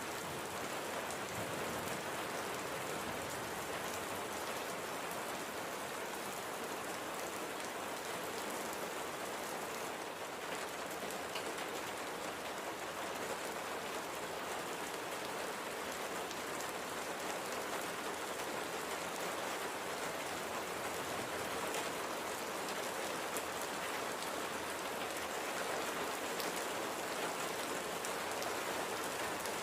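Steady light rain falling on a surface, an even hiss with fine patter of individual drops.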